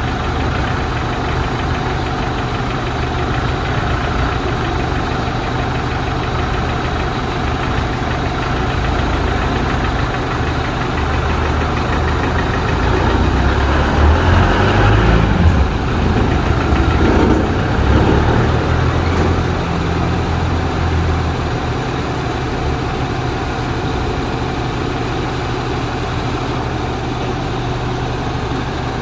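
Truck engine idling steadily, swelling louder and rougher for a few seconds about halfway through before settling back to an even idle.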